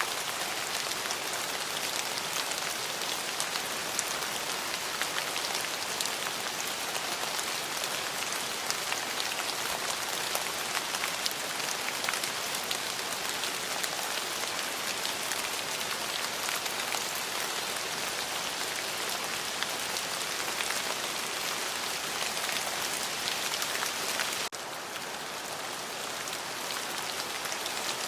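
Steady heavy rain falling on a surface, with many sharp drop ticks through it. About 24 seconds in, it abruptly becomes a little softer and carries on.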